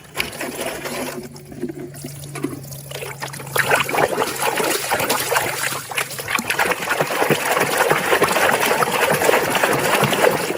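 Water splashing and trickling as a muddy plastic animal toy is washed by hand, busier from about four seconds in.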